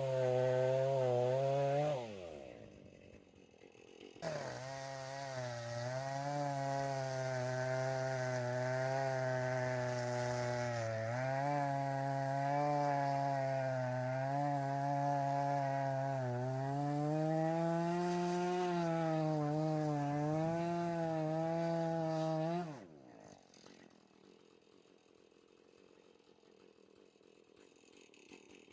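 Chainsaw running at high revs, its pitch sagging and rising as it is worked through wood. It stops about two seconds in, starts again about two seconds later, runs for some eighteen seconds, then cuts off.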